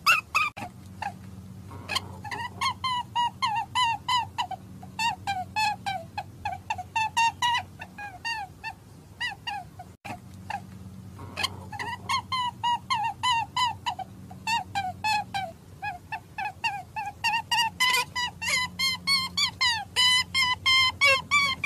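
Rapid runs of short, high chirping animal calls, about five a second, going on for several seconds at a time with brief pauses, over a faint steady low hum.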